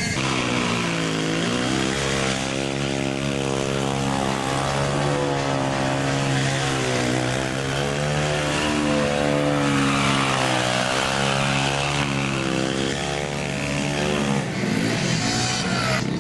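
Mini bike's small single-cylinder four-stroke engine held at high revs, its pitch wavering up and down as the throttle is worked, then falling away near the end.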